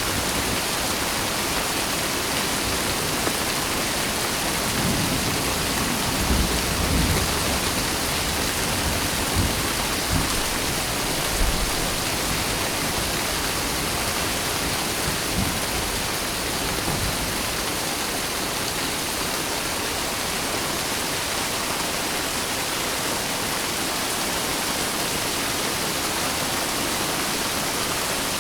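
Steady, heavy rain with an even hiss. Low rumbles of thunder come in about five seconds in and die away after several seconds.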